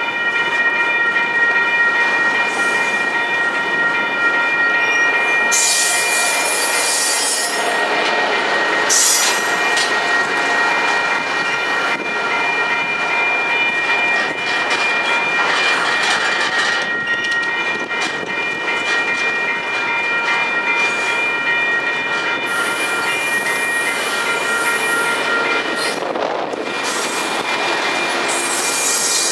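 A train moving close by: the steady rumble and clatter of the cars, with several steady high squealing tones that stop about three-quarters of the way through.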